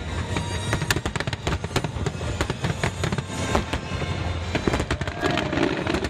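Fireworks bursting in rapid, irregular succession: sharp cracks and bangs over a continuous low rumble of booms, with music playing underneath.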